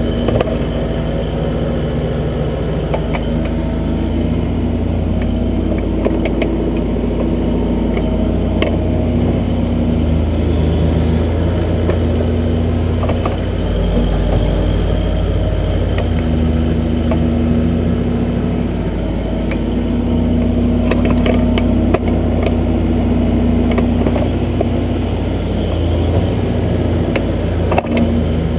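Kubota backhoe's diesel engine running steadily as the hoe digs, swelling a little at times, with scattered short clicks and knocks.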